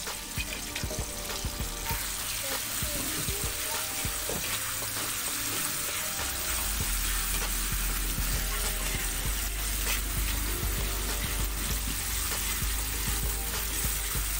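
Coarsely pounded red chilli paste sizzling steadily in hot oil in an aluminium wok, with a metal ladle stirring and scraping through it.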